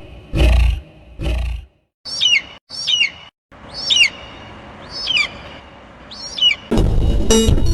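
A bird giving five short, screeching calls about a second apart, each sliding down in pitch. It is preceded by two loud, low roar-like blasts and followed, near the end, by loud music cutting in.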